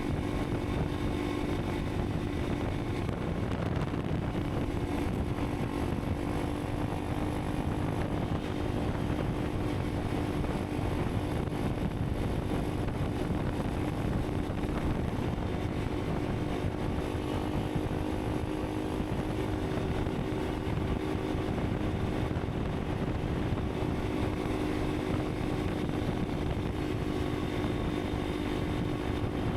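Honda CRF300 Rally's single-cylinder engine running at a steady, unchanging pitch while the bike cruises, over a low rumble.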